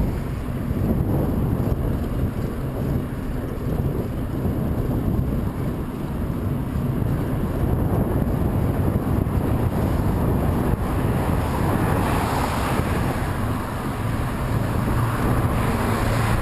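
Headwind buffeting the microphone of a moving camera as a steady low rumble, with a brighter rushing noise that swells about twelve seconds in and again near the end.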